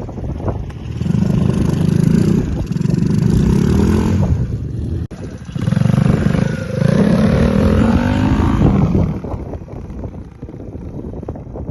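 Dirt bike engine accelerating hard in two spells, its pitch climbing through each, with a sudden drop in between about five seconds in. It eases off to a lower, quieter run near the end.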